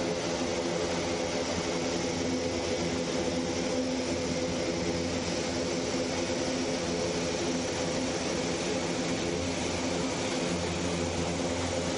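Airbus A400M's turboprop engines running steadily: an even roar with several constant droning tones, not rising or falling.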